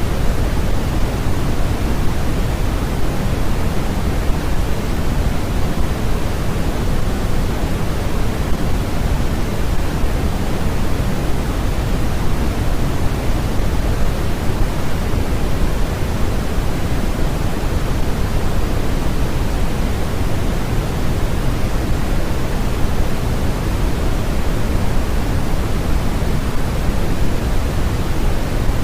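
Steady synthetic noise for sleep and focus, an unchanging loud hiss weighted toward the low end rather than evenly spread.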